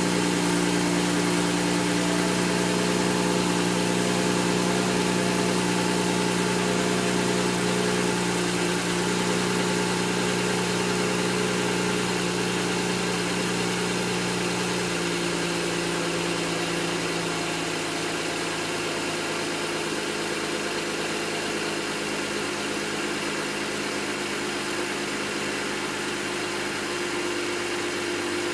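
BMW 135i's N54 twin-turbo inline-six idling with a misfire. The idle runs steadily, then settles a little lower and quieter about halfway through.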